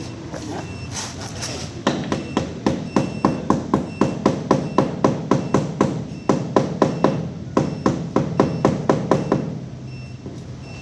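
A hammer striking metal in a fast, even run of blows, about four a second, with a brief pause midway. A vehicle's reversing beeper repeats faintly and steadily behind it.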